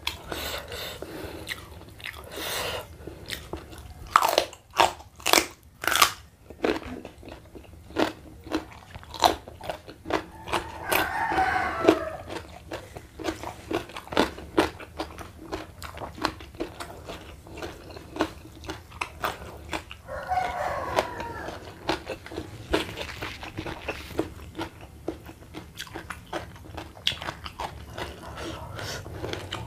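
Close-up crunchy biting and chewing of raw papaya stalk eaten as lalapan, with a run of loud crunches about four seconds in and wetter chewing after.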